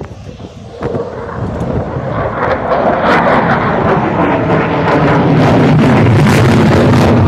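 Jet aircraft flying by at an air show, its engine noise growing steadily louder over the first few seconds and then holding loud and steady.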